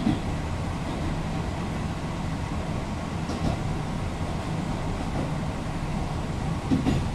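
Running noise of an electric commuter train heard from inside the car at the front: a steady low rumble of wheels on track and the train's drive, with a couple of short knocks near the start and near the end.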